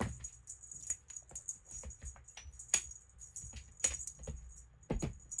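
Small bell on a toy bird jingling in irregular shakes and clicks as a cat claws and bats at it, with a few soft thumps from the cat's jumps.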